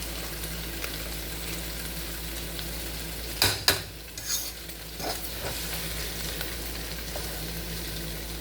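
Chicken, onions and bell peppers with tomato paste sizzling steadily in a frying pan, with a few sharp clacks of a utensil against the pan about three and a half seconds in as it is stirred.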